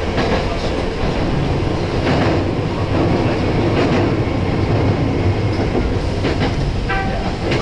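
A Nose Electric Railway 1700 series electric train running along the line, with a steady rumble and a few clicks of the wheels over rail joints. A brief high tone sounds near the end.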